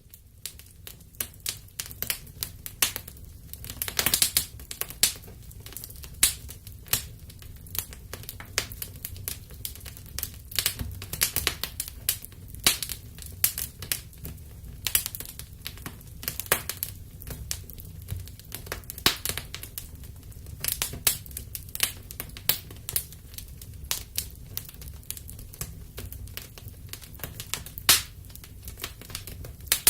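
Wood fire burning in a fireplace, crackling with irregular sharp snaps and louder pops over a steady low rumble.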